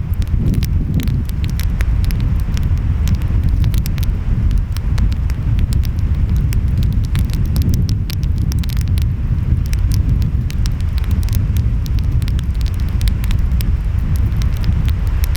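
Wood fire crackling, with frequent short sharp pops scattered irregularly, over a steady low rumble of ocean waves and wind.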